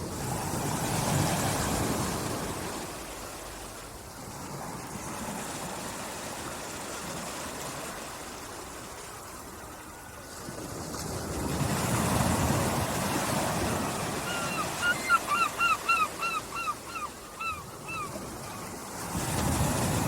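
Gentle sea waves washing onto a beach, swelling and fading in slow surges about ten seconds apart. In the second half a run of about a dozen short, falling chirps comes quickly, several a second, for a few seconds.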